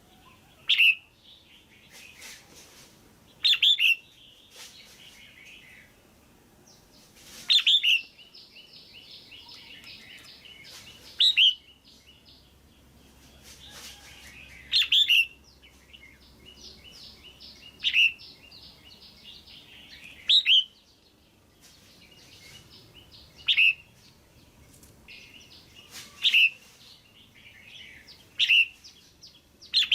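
Female red-whiskered bulbul calling: loud, sharp call notes every two to three seconds, with softer chattering between them.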